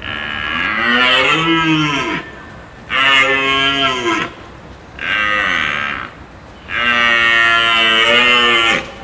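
Cattle mooing: four long moos, each one to two seconds long, with short pauses between them.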